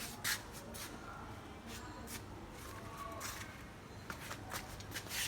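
Hands working on dishwasher parts and tools: scattered sharp clicks and taps with light rustling, the loudest knocks about a third of a second in and near the end.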